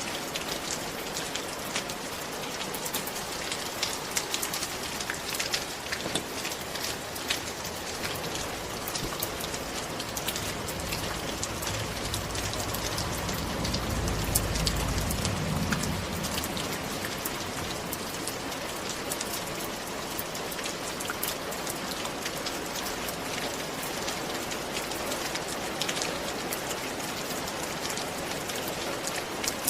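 Steady rain falling, a dense hiss dotted with the ticks of individual drops. A low rumble swells and fades about halfway through.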